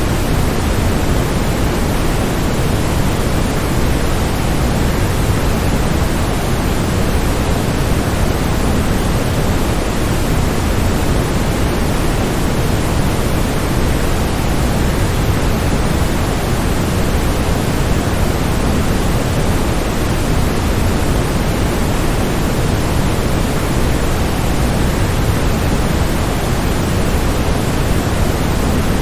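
Waterfall rushing as a steady, unchanging wash of noise, heaviest in the low end.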